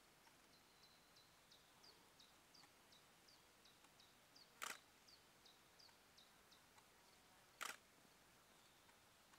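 Quiet outdoor air with a bird's short high chirp repeated steadily about three times a second, and two sharp clicks about three seconds apart, the loudest sounds.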